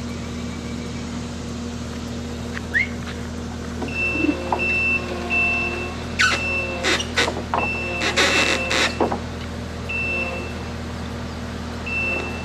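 Skid steer engine running steadily while its backup alarm beeps in irregular pulses from about four seconds in. A few sharp metallic clanks and rattles come in the middle.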